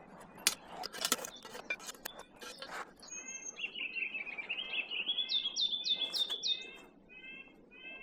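Several sharp clinks and knocks for about the first three seconds, as hot coals are moved up onto the top of a camp-stove bread bake. Then a songbird sings: a series of repeated chirps with a quick run of rising notes in the middle.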